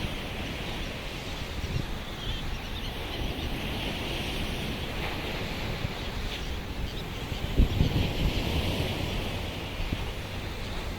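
Wind buffeting the microphone, with a stronger gust about eight seconds in, over the steady wash of surf and the faint chatter of a distant seabird flock.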